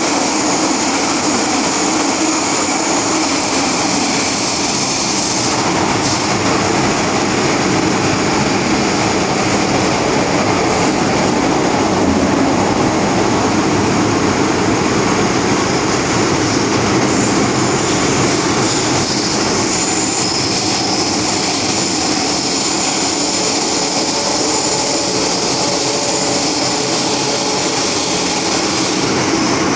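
MTR Tseung Kwan O line M-Train running between stations, heard from on board: a steady rumble of wheels on rail with a faint high whine.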